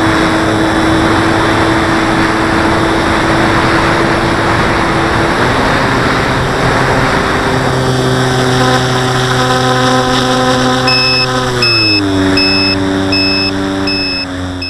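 Radio-controlled model airplane's motor and propeller running with wind rush, the pitch stepping down as the throttle is eased back. From about 11 seconds in, a short high electronic beep repeats about every 0.6 seconds.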